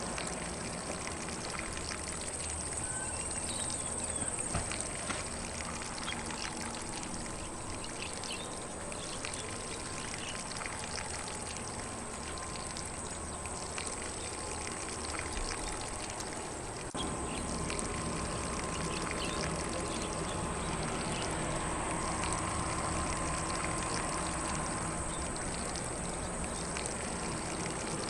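Lawn sprinkler spraying water across grass in a steady, even hiss, with faint bird chirps.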